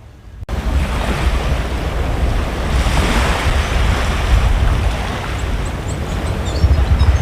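Wind buffeting the microphone over the steady wash of breaking surf, cutting in abruptly about half a second in. A few faint high chirps come through near the end.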